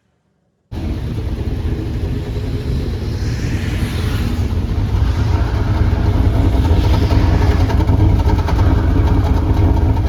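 Car engine running through its freshly repaired exhaust, a steady deep exhaust note that cuts in abruptly about a second in and grows slightly louder.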